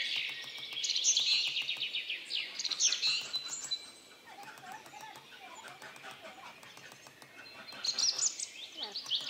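Birds chirping and singing in quick trills, loudest for the first few seconds and again near the end. Under them are rapid light hammer taps on a small chisel engraving a pierced copper sheet on a metal stake.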